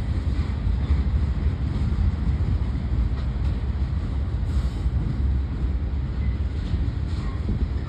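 Union Pacific manifest freight train rolling past, a steady low rumble with a few faint higher clicks.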